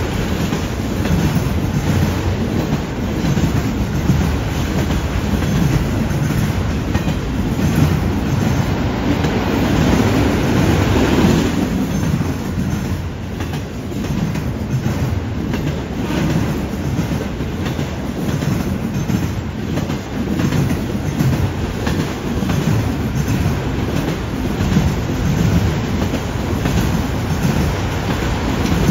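Freight train of autorack cars rolling past: a steady rumble of steel wheels with a running clickety-clack as the wheels cross the junction switch, swelling briefly about ten seconds in.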